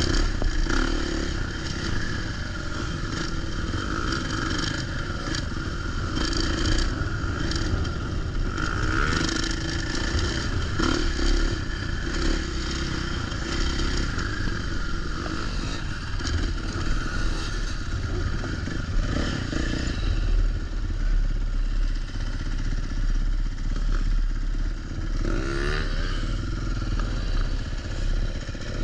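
Dirt bike engine being ridden hard, its pitch rising and falling as the throttle is worked, with heavy wind rumble throughout.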